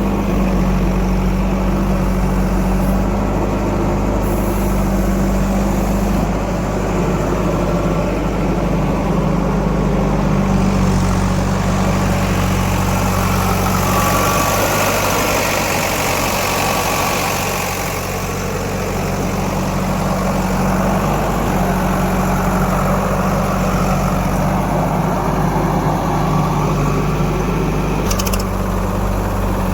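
Heavy diesel engine of a working machine running steadily. A louder rushing noise rises over it for a few seconds near the middle.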